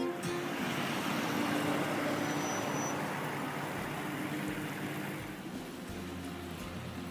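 Water running and trickling in a small decorative landscape stream, a rushing sound that fades a little after about five seconds; a low steady hum comes in near the end.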